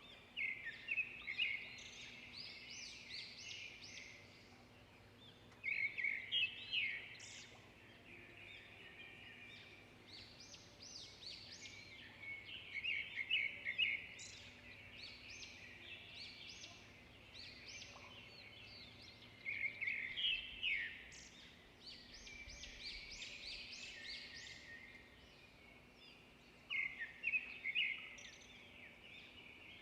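Songbirds singing: a loud phrase of rapid high notes comes back about every six to seven seconds, with quieter chirping in between.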